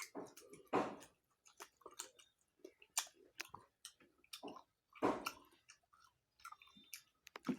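A person chewing and eating a meal close to the microphone: irregular wet mouth smacks and clicks, louder about a second in, at three seconds and at five seconds.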